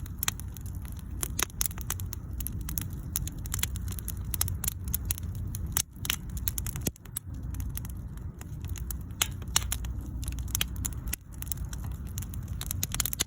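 Wood bonfire crackling: irregular sharp pops and snaps over a steady low rumble of the flames.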